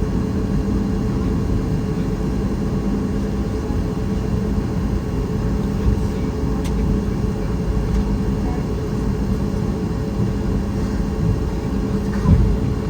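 Steady cabin noise inside a Boeing 737 MAX 8 airliner: a constant rumble from its engines and the air around the fuselage, with a low steady hum. A brief click a little after halfway and a couple of short thumps near the end.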